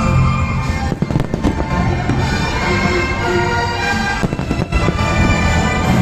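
Fireworks going off, a dense run of sharp pops and crackles one after another, with music playing.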